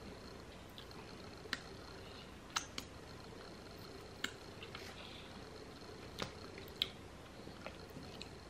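Close-up chewing of a mouthful of chicken salad wrap: faint, scattered wet mouth clicks, about half a dozen, over a low background hiss.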